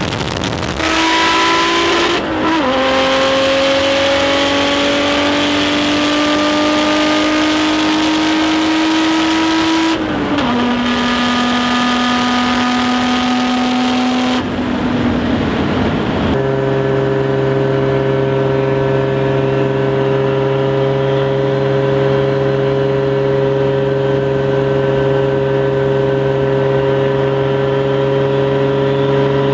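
Toyota Cressida's turbocharged 1JZ inline-six pulling hard, its pitch climbing slowly and dropping abruptly at gear changes about two and ten seconds in. From about halfway it holds a steady drone at constant revs.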